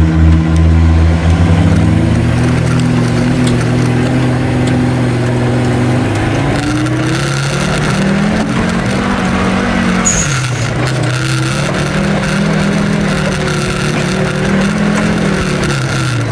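Off-road 4x4's engine pulling along a forest trail. Its note is steady at first, then rises and drops back twice as it revs up and eases off.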